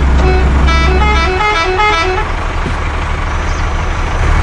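A tune of short horn-like notes stepping up and down, over a low engine hum that drops away after about a second and a half. A steady noisy rush follows.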